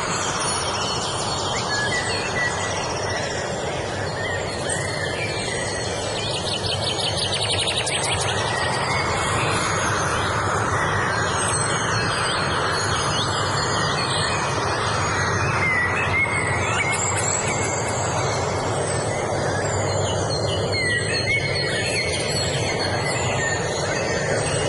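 Several wild birds chirping and singing in short, repeated phrases over a steady, rushing background noise.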